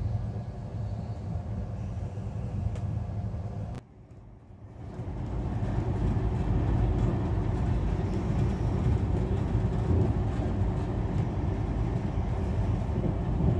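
Running noise of a moving passenger train heard from inside a coach: a steady low rumble of wheels on rails. It drops away briefly about four seconds in, comes back louder, and cuts off abruptly at the end.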